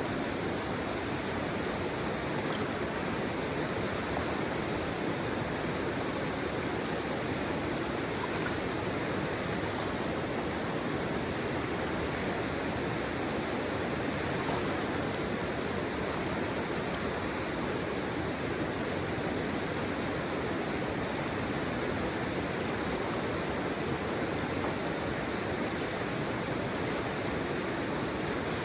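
Steady flowing river water blended with a continuous hiss of pink noise, an even rushing with no breaks or separate events.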